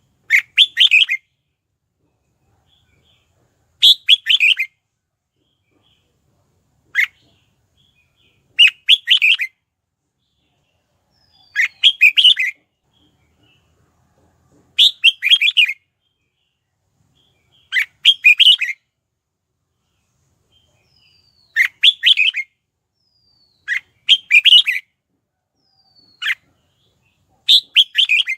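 Red-whiskered bulbul singing short, quick chirping phrases about a second long, repeated every three to four seconds.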